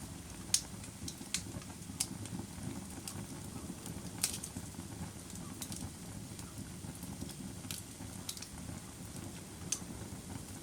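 Firewood burning: a steady low rumble of the fire with scattered sharp crackles and pops at irregular intervals, the loudest about half a second in.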